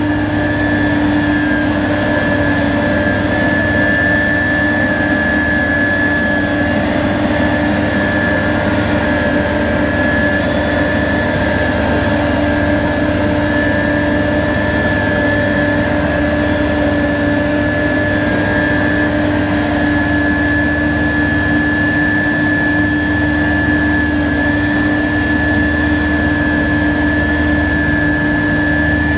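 Heavy road-paving machinery running steadily close by: a constant diesel engine rumble with a steady high whine over it.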